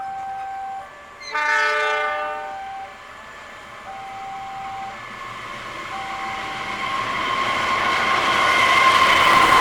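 A level-crossing warning bell chimes in a repeating tone pattern while a locomotive horn blows once for about a second and a half, starting about a second in. From about six seconds in, an approaching train's wheel and rail noise grows steadily louder.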